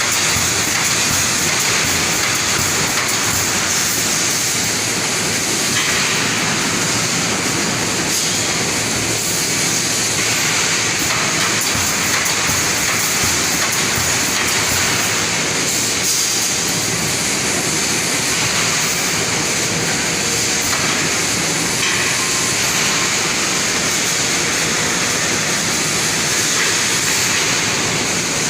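Rebar wire mesh welding machine running: a loud, steady mechanical noise with a constant high-pitched hiss over it.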